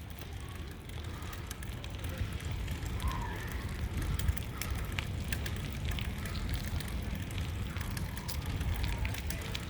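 Wind buffeting the microphone during a bicycle ride: a steady low rumble with scattered small clicks and crackles.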